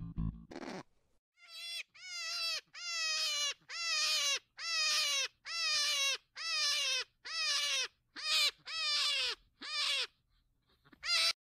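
Hare squealing: a rapid run of more than a dozen high, falling cries, each about half a second long and spaced evenly, that stops a little before the end.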